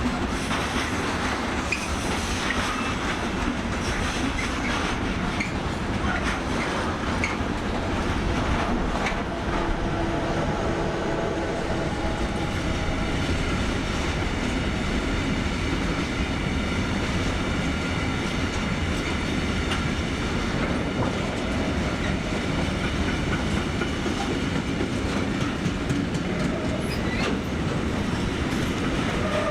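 Freight wagons rolling through a run of points, wheels clattering over rail joints and frogs, with faint wheel squeal now and then, louder around a third of the way in and again near the end.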